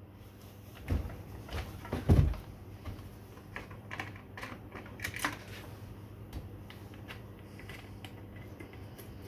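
A new chainsaw being handled: scattered plastic clicks and knocks from its housing, with two heavier thumps about one and two seconds in, the second the loudest.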